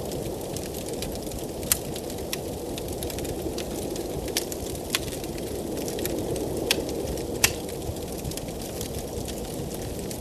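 Wood fire crackling, with scattered sharp pops at irregular intervals, over a steady low rush of blizzard wind.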